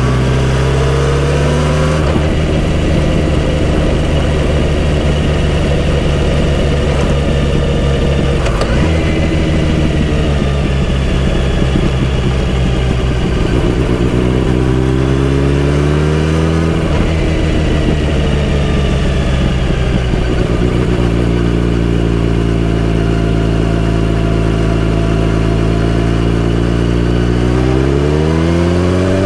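Kawasaki Z900RS inline-four motorcycle engine through a full-system exhaust, riding and pulling through the gears. The pitch climbs, drops at shifts about a third of the way in and again a little past halfway, holds steady for several seconds, and rises again near the end.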